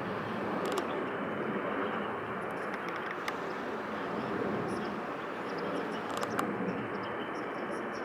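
Steady outdoor background noise, with a few faint clicks about one, three and six seconds in.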